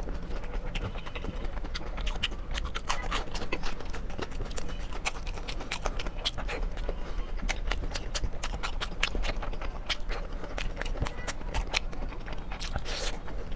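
Close-miked eating sounds: chewing and lip-smacking on steamed dumplings, a fast, uneven run of wet mouth clicks.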